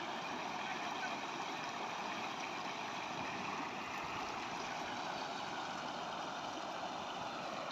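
Fast-flowing, rain-swollen seasonal river rushing over a road causeway: a steady, even rush of water.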